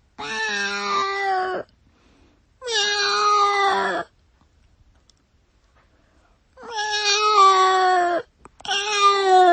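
A cat meowing: four long, drawn-out meows, each falling slightly in pitch, with a pause of about two and a half seconds after the second; the last meow runs on past the end.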